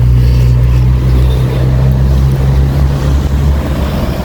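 A vehicle engine running steadily with a low hum, easing off about three and a half seconds in.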